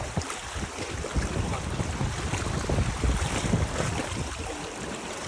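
Rough sea with strong waves breaking and washing, and wind gusting against the microphone in low rumbles.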